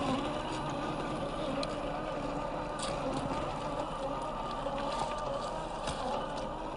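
Electric motor and gear drivetrain of a 1/10-scale RC4WD Gelande II crawler whining steadily as it drives over dirt, the pitch wavering slightly with throttle, with scattered clicks and crunches from the tyres on dirt and small stones.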